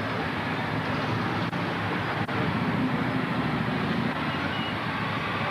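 Motorcycle engines running, a steady rumbling mixed with background noise. The sound drops out very briefly twice.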